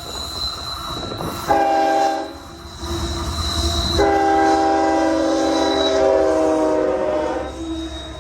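Union Pacific freight locomotive's multi-chime air horn sounding a short blast and then a long one, over the low rumble of the passing train.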